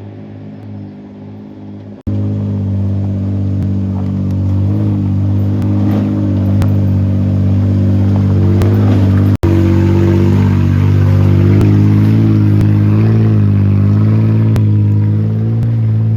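Muffler-deleted exhaust of a Toyota 80-series Land Cruiser's 1FZ-FE inline-six, running at low, fairly steady revs with slight rises and falls. It steps up louder about two seconds in and cuts out for an instant around the middle.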